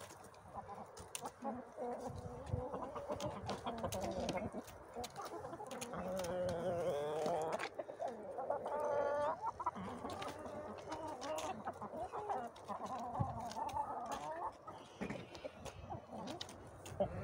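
Chickens clucking and squawking as they scramble over pieces of bread, with many short ticks throughout.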